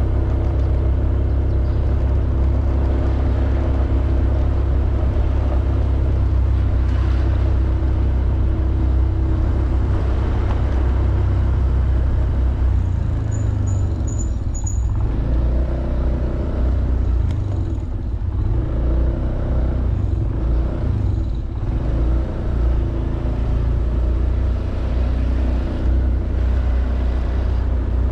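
Honda Beat 110cc scooter's single-cylinder engine running steadily on the move, under a heavy low rumble, easing briefly a couple of times in the second half. Four short high peeps sound about halfway through.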